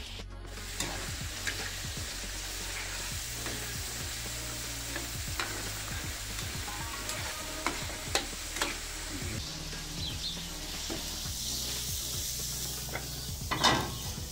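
Diced cuttlefish, tuna and swordfish sizzling in tomato sauce in a pan, stirred with a metal spoon that scrapes and clicks against the pan. There is one louder scrape near the end.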